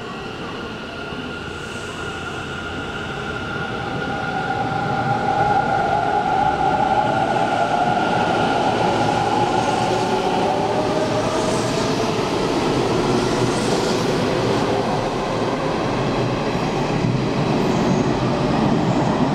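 Electric commuter train running through the station, growing louder over the first few seconds into a steady rumble of wheels on rails, with a motor whine whose tones slide down in pitch.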